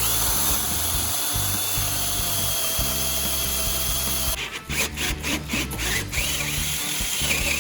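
Electric drill boring a hole through a car speaker's magnet, running steadily with a whine for about four seconds, then cutting in choppy bursts with squeals as the bit bites. Background music plays underneath.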